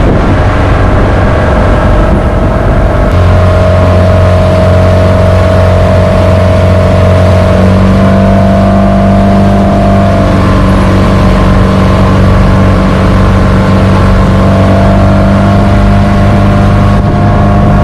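Motorboat engine running steadily under way, its drone stepping slightly higher and stronger about three seconds in and again near the middle, over the rush of water and wind.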